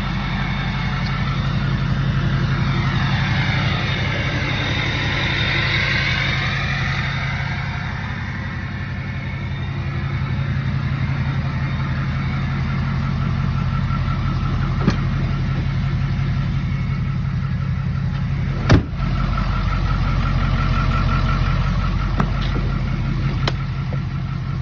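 Ford 6.7L Power Stroke turbo diesel V8 idling steadily. A hiss swells and fades a few seconds in, and there is a single sharp click about two-thirds of the way through.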